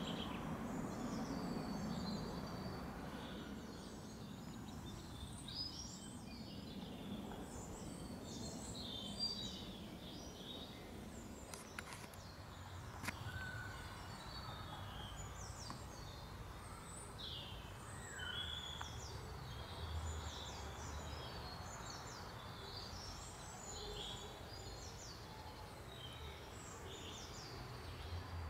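Several small birds chirping and twittering throughout, over a low, steady background hum, with a couple of faint sharp clicks near the middle.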